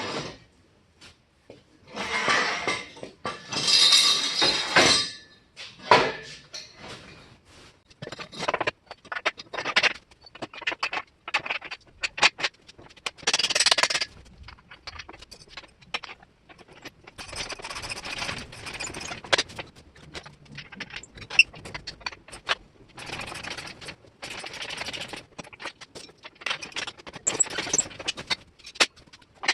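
Metal fabrication work on a steel truck frame: irregular clanks and knocks of steel parts, with several short noisy bursts of a second or two each.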